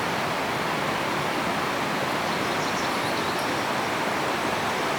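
Steady rushing noise with no pitch or rhythm, with a few faint high chirps about halfway through.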